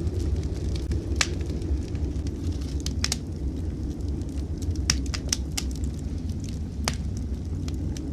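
Wood fire in a fireplace crackling, with a handful of sharp pops about a second in, around three seconds, and between five and seven seconds, over a steady low rumble.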